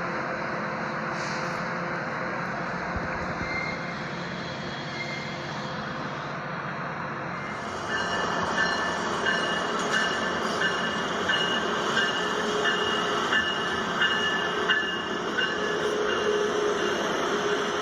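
Train moving through the station: a steady rumble, then about eight seconds in it gets louder, with wheels clacking over rail joints at a regular beat of roughly three every two seconds and brief high wheel squeals.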